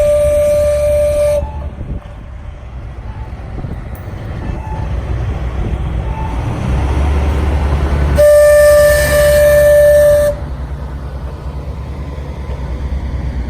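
Steam locomotive whistle: one long blast that cuts off about a second and a half in, a second long blast from about 8 to 10 seconds, with the low rumble of the approaching train building in between and continuing afterwards.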